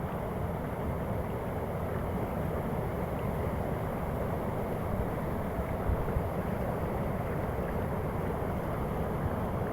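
Steady rush of falling water from a waterfall, with a few low bumps about six seconds in.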